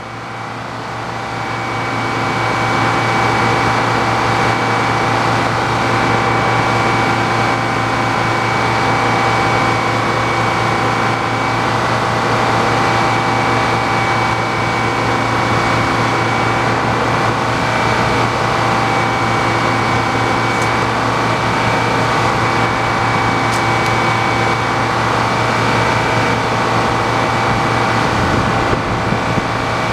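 A sawmill running with its saw cutting lengthwise through a large log. The sound builds over the first couple of seconds, then holds steady.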